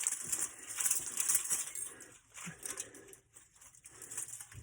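Light metallic rustling and clinking of thin aluminium fins being pulled off an A-coil's copper tubing by gloved hands, busier in the first couple of seconds, over a steady high outdoor hiss.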